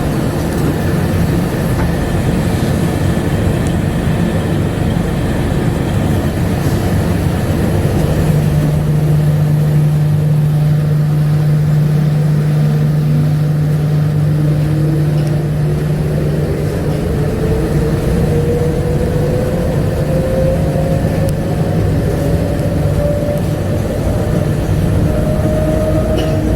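Bombardier APM100 rubber-tyred people-mover train running with a steady low drone. From about halfway through, a motor whine rises steadily in pitch as the train gathers speed.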